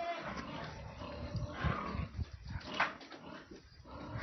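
Pigs grunting: a string of short low grunts, with a brief higher call just under three seconds in.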